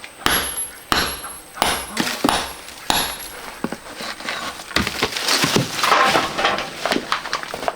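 Stones knocking together in an irregular series of sharp clacks, about one or two a second, with a denser rattling scrape about five to six seconds in.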